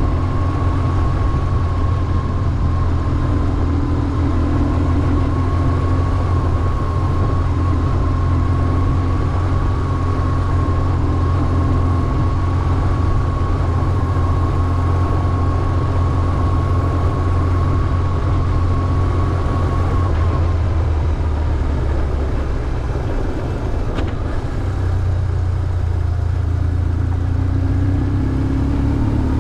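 BMW R1150GS's flat-twin boxer engine running at fairly steady revs on the move. A thin steady whine sits over the engine note and fades out about two-thirds of the way through.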